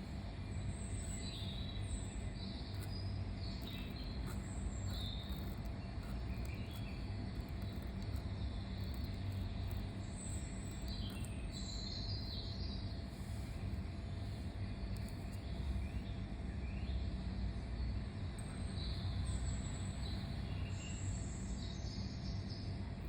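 Short bird chirps at irregular intervals over a steady low rumble, with a pen scratching on paper.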